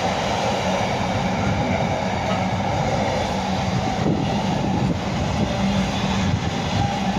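A long freight train of container wagons rolling steadily past on the main line, hauled by Class 66 diesel 66108, with a continuous rumble of wheels on rail and a steady low hum.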